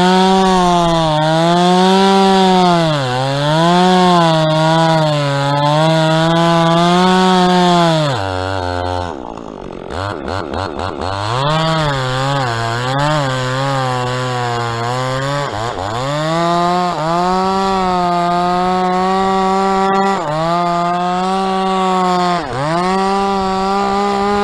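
Two-stroke chainsaw at full throttle cutting into dead palm wood, its pitch dipping again and again as the chain bogs down under load. About eight seconds in it drops briefly to idle, then revs back up and cuts on, dropping off at the very end.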